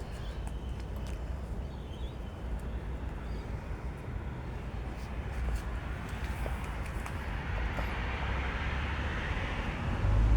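A passing road vehicle: a low rumble with tyre hiss that grows steadily louder over the last few seconds.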